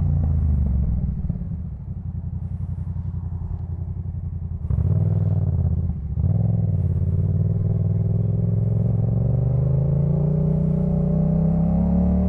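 Yamaha MT-07's 689 cc parallel-twin running through a Jeskap K4 full exhaust. The revs fall away and the engine drops to a low, lumpy run for a few seconds, then the throttle opens again near five seconds in. After a brief drop about six seconds in, the revs climb steadily under acceleration.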